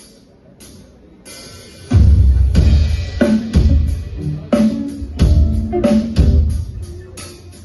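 Live band starting a song: a few light cymbal ticks, then about two seconds in the drum kit comes in hard with a heavy kick-drum beat and a low bass line in a steady rhythm.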